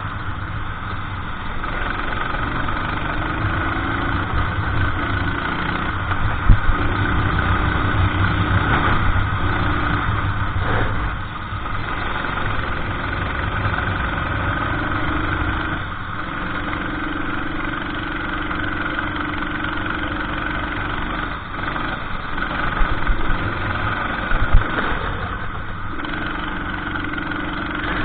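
Racing kart engine running under race load, its pitch dropping and climbing again every few seconds as the kart brakes and accelerates. A few short sharp knocks come partway through and near the end.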